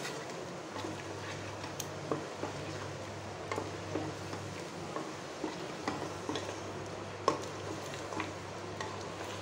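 Mutton with ginger-garlic paste sautéing in a pressure cooker, sizzling steadily while a wooden spatula stirs and scrapes it, with scattered light knocks of the spatula against the pot. A steady low hum runs underneath.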